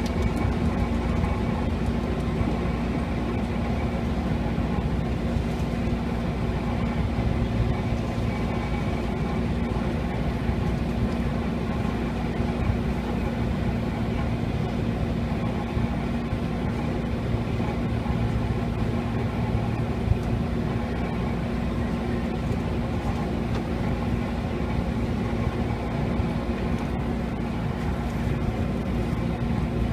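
Interior noise of a JR East 205 series electric commuter train car: a steady low rumble with a constant low hum that neither rises nor falls.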